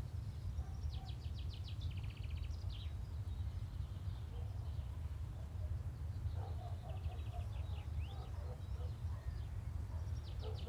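Small birds chirping and singing short, rapid trills, repeated several times, over a steady low background rumble.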